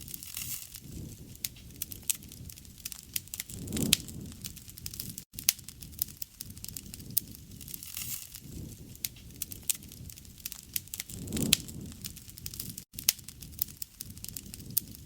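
Wood campfire crackling, with frequent sharp pops and snaps over a low rumble of burning flames that swells twice.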